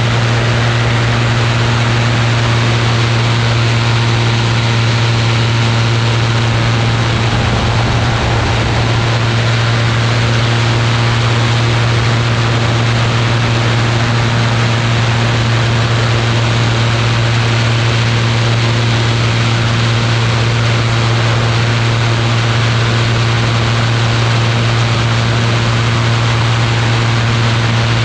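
Ultralight aircraft's engine and propeller droning steadily in flight, one constant low pitch with an even hiss over it.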